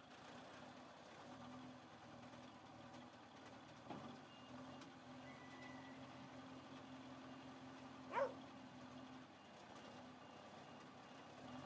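Heavy-equipment engine idling steadily at a low level, with a light knock about four seconds in. About eight seconds in, a dog gives a single short bark, the loudest sound.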